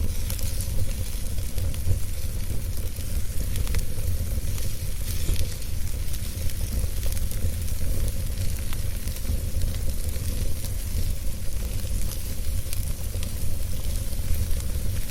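Wood fire burning steadily with a low rumble and frequent small, sharp crackles.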